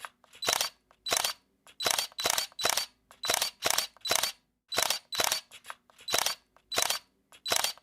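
Camera shutter firing over and over, each release a sharp double click, repeating about once a second or a little faster.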